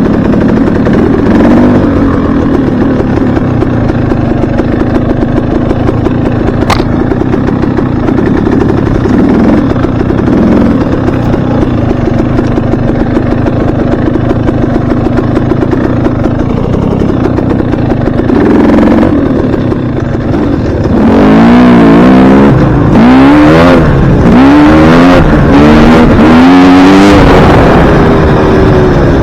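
Dirt bike engine running at a steady pace, with a couple of brief revs, then during the last third revving up and down repeatedly, its pitch rising and falling several times; this revving is the loudest part.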